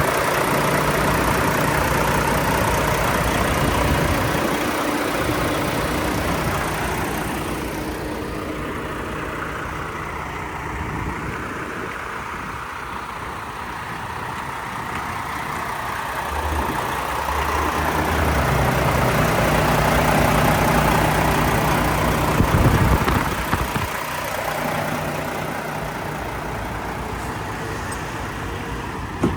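Diesel engine of a Mack Granite roll-off truck idling steadily, its level falling off partway through and swelling again later.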